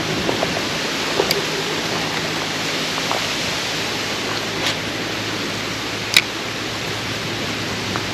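Steady rush of flowing water, with a few brief sharp clicks on top, the loudest about six seconds in.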